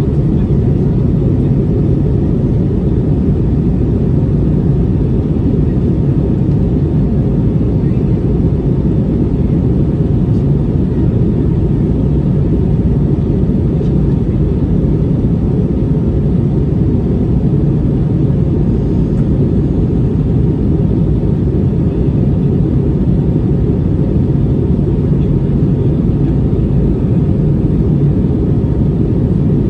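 Steady low drone of an Airbus A320neo's engines and rushing air, heard inside the cabin in flight, with a faint steady hum under it.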